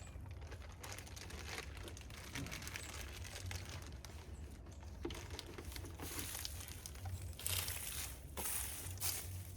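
Crinkling and rustling with scattered light clicks, louder in a few short bursts in the second half.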